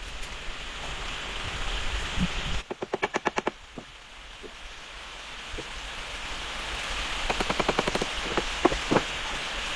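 Steady rain with two short trains of rapid knocks, about ten a second, and two single knocks near the end.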